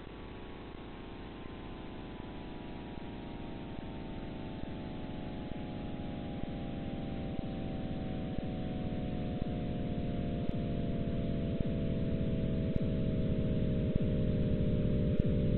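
Synthesized drone: a chord of tones sliding slowly down in pitch and steadily growing louder, over a low rumble, with faint ticks about once a second.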